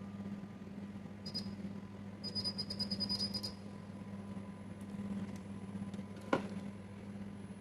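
Quick runs of light clicking and rattling with a thin high ring, about a second in and again around the middle, then one sharp tap near the end, over a steady low electrical hum.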